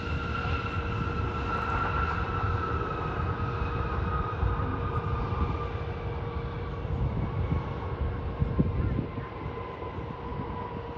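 Jet airliner passing, its engine whine falling slowly in pitch over a low rumble.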